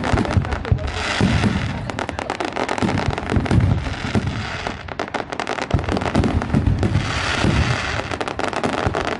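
Fireworks going off: a dense run of sharp bangs and pops in quick succession, with no let-up.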